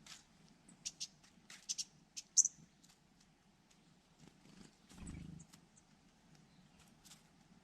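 Birds giving short, sharp, high clicks and chirps, about a dozen in quick succession over the first two and a half seconds, the loudest a bright chirp near the end of the run. About five seconds in there is a brief low rumble, then only faint scattered ticks.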